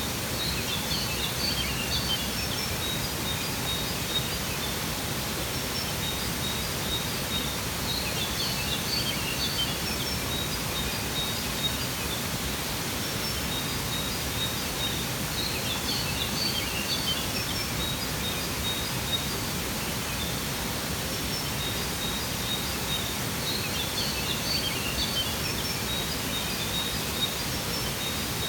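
Steady rush of a waterfall with birds chirping over it; a burst of high chirps comes back about every eight seconds.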